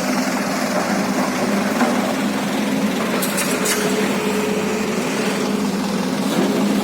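Excavator's diesel engine running steadily under work, with a brief metallic clatter about three seconds in.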